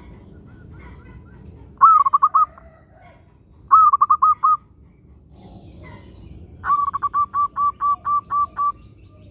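Zebra dove (perkutut) cooing: three phrases of quick repeated notes, the third about twice as long with around ten evenly spaced notes.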